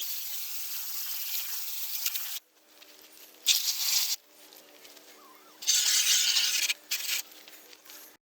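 Spray hissing in bursts onto a window air conditioner's coil as it is cleaned: one long burst of about two seconds, then three shorter ones.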